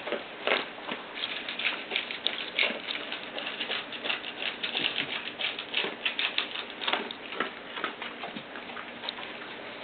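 Almost three-week-old doodle puppies scrabbling and shuffling about, with many quick irregular scratches and clicks and small squeaks.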